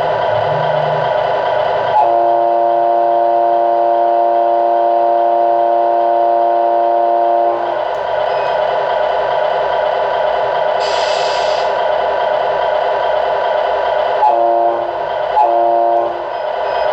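Sound unit of a Tamiya RC Scania truck playing a steady truck engine hum, with one long air horn blast of about five seconds, a short hiss about nine seconds in, and then two short horn toots near the end.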